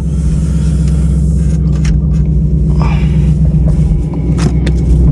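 Dodge R/T's 5.7-litre HEMI V8 running steadily, with its resonator and mid mufflers cut out, heard as a deep, loud exhaust drone inside the cabin. A few light clicks are heard over it.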